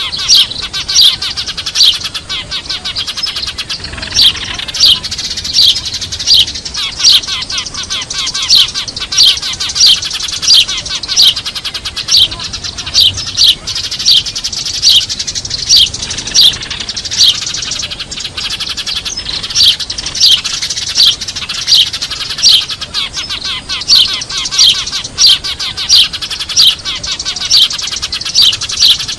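Eurasian tree sparrows chirping busily and without pause, with louder sharp chirps coming one to two times a second over a dense bed of softer chirps. It is a noisy sparrow lure call, played to draw wild sparrows in.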